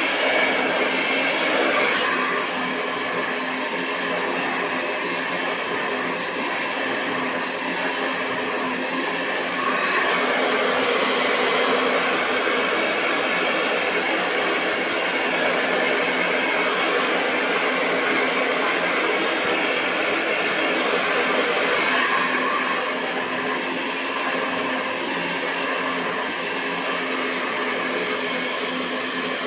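Hair dryer blowing continuously: a steady rush of air over a low motor hum, its tone shifting slightly a few times.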